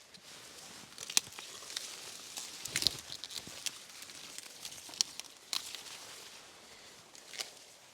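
Dry corn leaves and husks crinkling and rustling as corn plants are handled, with several sharp cracks and snaps at irregular moments.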